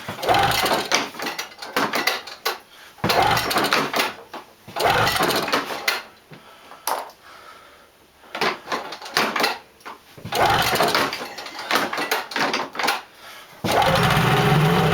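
A Yamaha SX 700 triple snowmobile engine being cranked over in about seven short, separate attempts on a cold start. Near the end it catches and settles into a steady run. The owner suspects bad gas in the tank.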